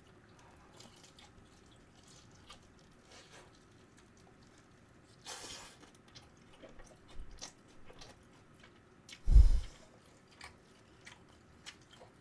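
Close-miked chewing and biting of a sauced fried chicken wing, with small wet clicks and smacks. A short noisy rustle about five seconds in, and a loud thump about nine seconds in.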